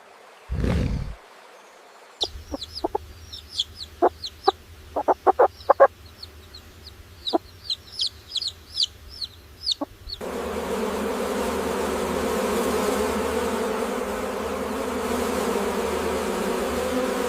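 Chickens clucking in short, sharp calls, with high-pitched chirps over them. After about ten seconds this gives way to a steady insect-like buzz.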